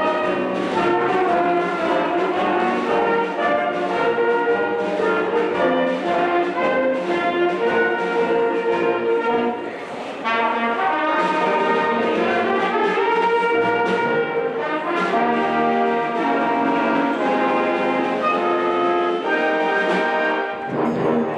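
A band playing a piece with the brass leading in sustained, chord-like notes, with a brief drop in loudness about ten seconds in.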